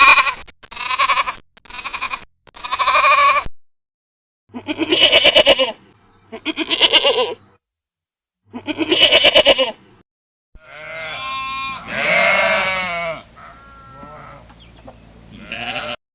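Bleating from small livestock: a run of short, wavering bleats with pauses between them, then from about ten seconds in a longer, denser stretch of bleating.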